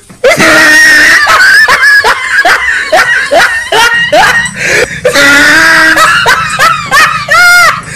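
High-pitched laughter: a rapid run of short squealing laughs, about three a second, between longer held squeals.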